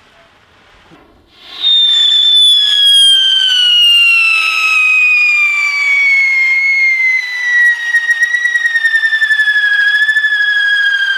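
A whistling firework lets out one long, loud, shrill whistle starting about a second and a half in, its pitch sliding slowly down, and wavering quickly in its last few seconds.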